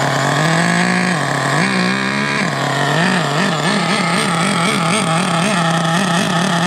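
HPI Savage X 4.6 nitro engine running just after starting, idling with its throttle blipped: a longer rev about half a second in, another around two seconds, then a quick series of short blips before settling back to idle.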